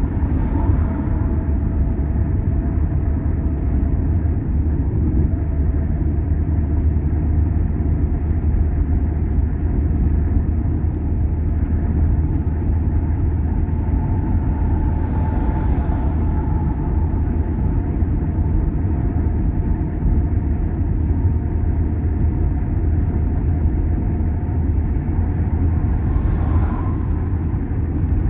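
Car driving along a road: a steady low engine and tyre rumble, with two short hissy swells, one about halfway through and one near the end.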